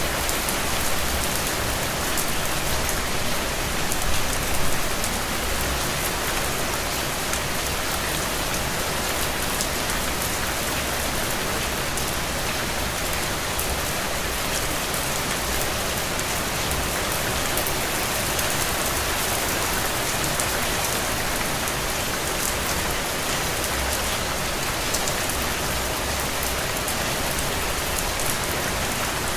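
Steady rain falling, an even hiss with many fine drop ticks and a low rumble underneath.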